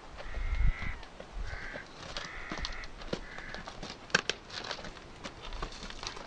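A crow-like bird cawing four times in quick succession, harsh flat calls, followed by a few scattered clicks.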